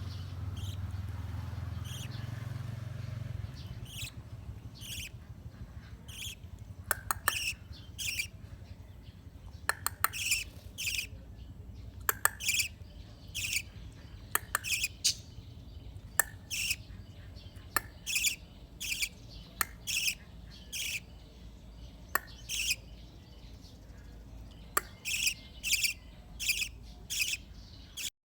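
Budgerigar chirping over and over in short, high calls, many of them in quick pairs, with a low hum during the first few seconds.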